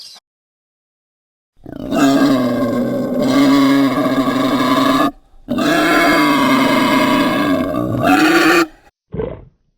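Monster roar sound effect: two long roars of about three seconds each, with a short break between, then a brief grunt near the end.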